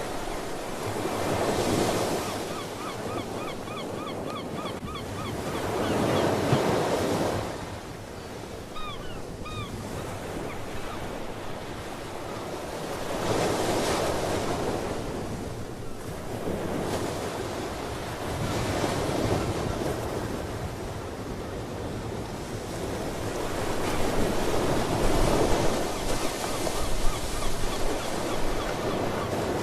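Ocean waves breaking and washing ashore, swelling every few seconds. Seabirds call over them: a quick run of short repeated calls a few seconds in, two rising calls around nine seconds, and fainter repeated calls near the end.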